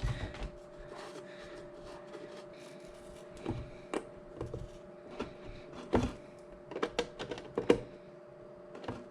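Scattered light clicks and knocks of small parts being handled and fitted into a wooden box, over a faint steady hum.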